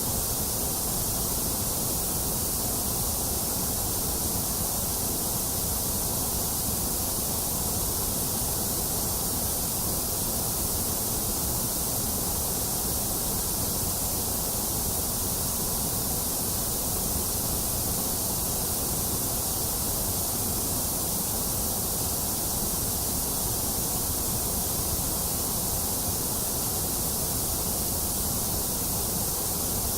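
Steady white noise: an even, unchanging hiss that holds the same level throughout.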